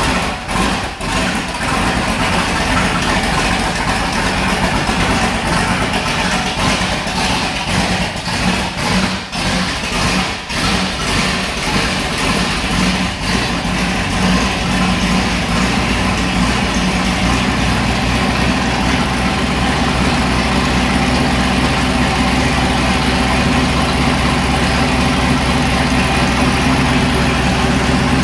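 1970 Dodge Charger R/T's 440 Six Pack V8 running on its first start-up, cold with the choke set, through open exhaust cutouts. The engine rises and falls unevenly for the first dozen seconds, then settles into a steady, deep idle.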